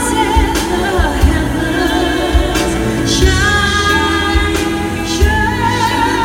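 A live pop ballad: a high sung voice holds long, wavering notes over a band with a steady drum beat.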